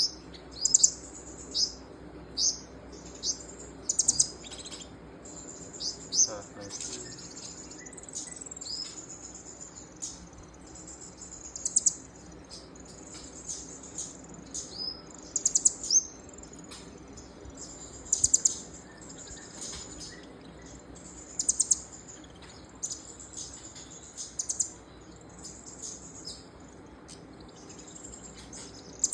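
Small songbird chirping in short, high, rapid bursts of notes every second or two, over a faint steady hum.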